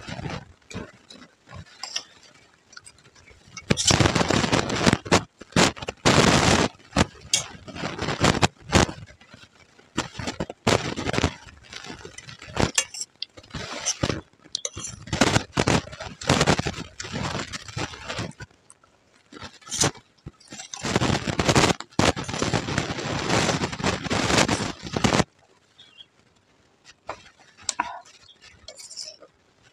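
Close-up crunching and chewing of puffed rice (muri) mixed with ghugni, with a spoon scraping a steel plate. The crunching comes in long loud runs from about four seconds in and drops away near the end.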